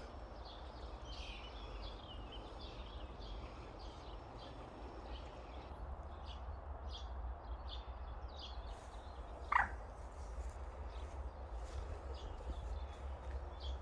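Small birds singing with many short, high chirps, and one louder, short bird call about nine and a half seconds in, over a steady low rumble.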